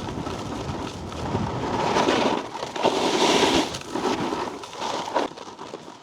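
Snowboard edge scraping and chattering over icy, crusty snow, a grainy rasp that gets louder and harsher about two seconds in and eases off near the end.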